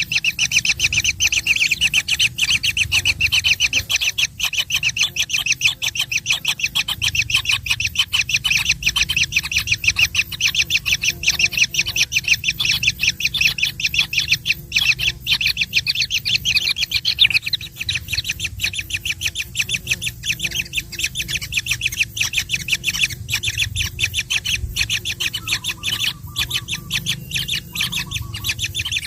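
Baby birds begging for food, a rapid, continuous stream of high squawking chirps, loudest over the first half and softer later, with a faint steady hum underneath.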